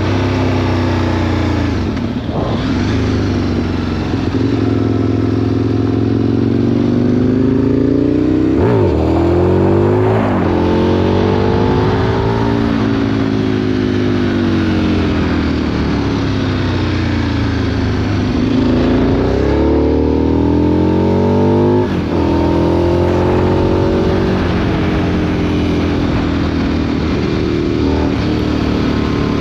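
2003 Aprilia Tuono RSV 1000's V-twin engine through a Remus exhaust, on the move: the revs climb and fall repeatedly as it accelerates, shifts gear and rolls off, with a few sudden drops at the gear changes.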